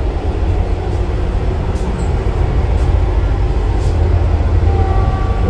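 Steady low rumble of the Vande Bharat Express train running, heard inside a coach's toilet compartment, with a few faint clicks. Near the end a steady whine joins in.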